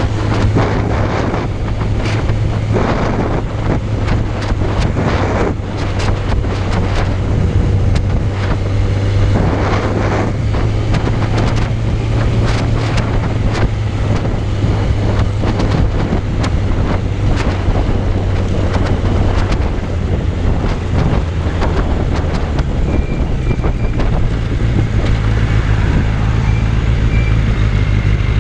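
Suzuki Bandit 600's inline-four engine running at a steady note while the motorcycle is ridden, with heavy wind buffeting on the microphone.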